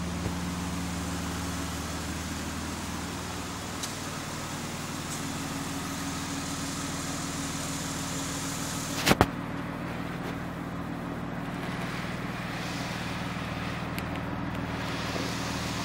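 Car engine running at a steady idle, with a sharp double knock about nine seconds in.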